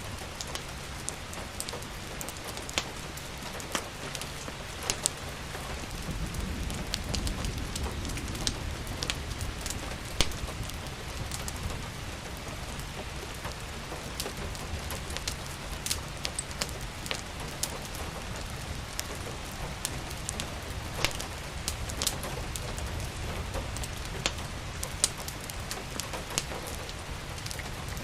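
Steady rain falling, mixed with the irregular pops and crackles of a wood fire burning in a fireplace. A low rumble swells and fades from about six to nine seconds in.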